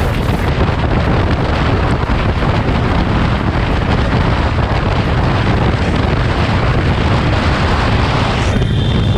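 Heavy wind buffeting on the microphone of a motorcycle riding at speed, a steady loud rush with low rumble. A short high tone sounds near the end.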